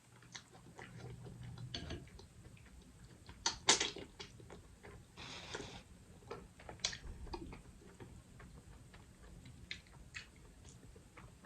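Eating sounds from a seafood boil of crab legs: scattered small clicks and smacks of shell and mouth, with a louder crack about four seconds in and a brief rustling hiss a second or so later.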